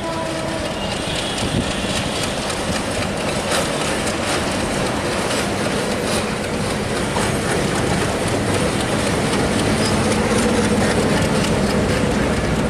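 Bangladesh Railway diesel-electric locomotive passing as it pulls an express train out of the station, its engine running under load. The passenger coaches follow, rolling by with the clickety-clack of wheels over rail joints, and the sound gets louder toward the end. A horn note trails off right at the start.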